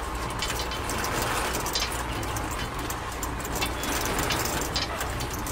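Steady whirring, hissing run of the small electric motor driving a miniature toy tractor's cone-shaped drill attachment, with a constant low hum.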